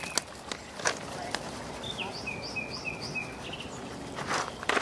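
A bird calls a short series of about five quick, repeated chirps in the middle. Around it are light rustles and taps as a packet of powder is emptied over boilies and pellets in a plastic bucket, with a louder rustling near the end.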